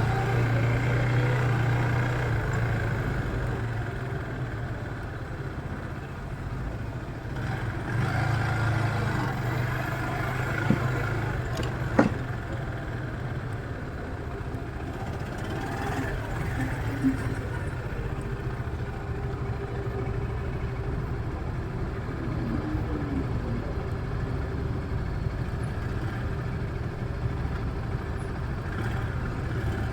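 Street traffic with a motor vehicle engine running, a low steady hum that fades out about twelve seconds in. There are two sharp clicks a little before that.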